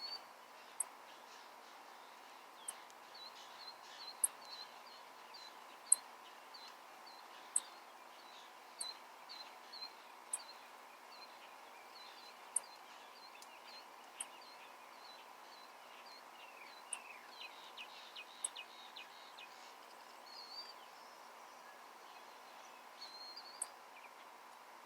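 Small birds calling at a feeder: a run of quick, repeated chirps, then a cluster of short falling notes. Sharp, very high ticks sound every second or two throughout.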